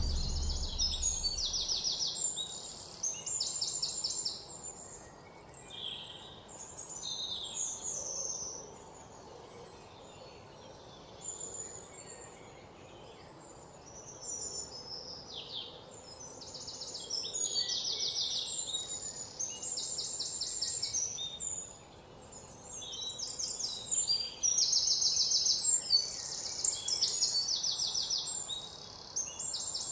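Several birds chirping and singing in quick trills, overlapping one another, over a faint steady outdoor background.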